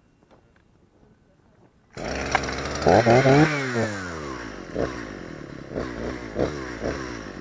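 Two-stroke chainsaw engine comes in suddenly about two seconds in, revs up once and falls back, then gets several short throttle blips.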